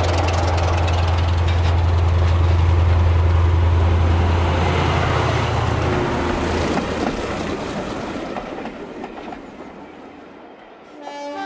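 Diesel train running past: a steady low engine drone with rail and wheel noise that fades away over the second half. A brief pitched sound comes near the end.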